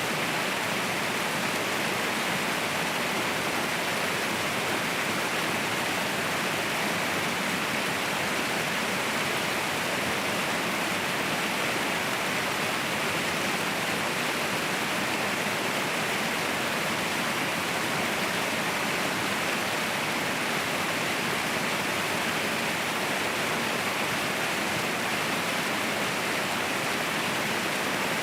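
Waterfall rushing steadily, a constant even roar of falling water with no breaks or changes.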